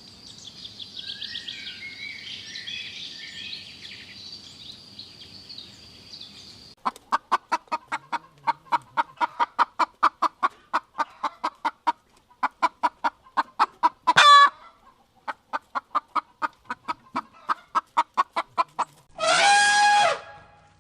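Chickens clucking in a fast, even run of about four clucks a second, broken once by a brief loud squawk, with a rooster crowing near the end. The first several seconds hold only a faint steady high insect whine with bird chirps.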